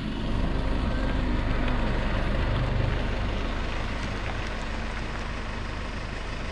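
A four-wheel drive's engine idling close to the microphone, a steady low hum.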